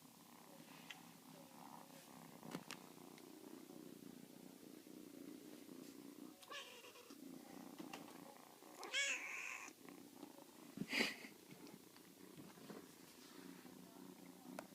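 Kitten purring steadily and softly. About nine seconds in there is a brief high-pitched sound with a wavering pitch, and about two seconds later a sharp click.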